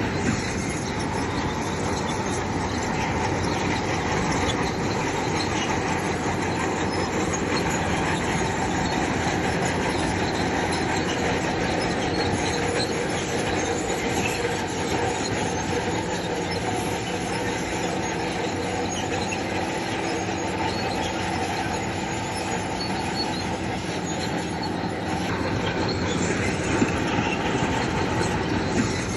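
Crawler bulldozer working stone fill: its diesel engine running steadily under the squeal and clatter of its steel tracks.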